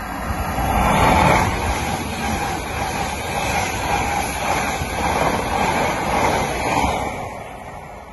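A passenger train passing through the station at speed without stopping: its rushing noise builds as it arrives about a second in, holds while the carriages go by, and fades after about seven seconds as it goes away.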